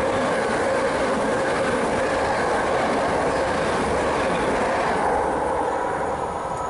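Southern electric multiple-unit passenger train passing through the station at speed, its wheels running on the rails with a loud, steady rushing noise. The noise starts to fade about five seconds in as the rear of the train clears the platform.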